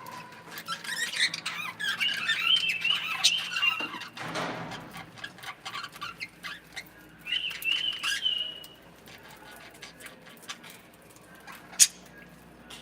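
Pet cockatiels and budgies calling in their cage: about three seconds of warbling chatter and squawks, a brief rustle, then a second, shorter bout of chatter. Small clicks follow, with one sharp click near the end.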